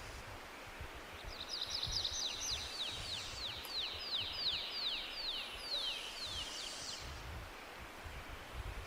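A songbird singing a long series of quick down-slurred whistled notes, about three a second, lasting about six seconds, over steady forest ambience with a low gusty rumble.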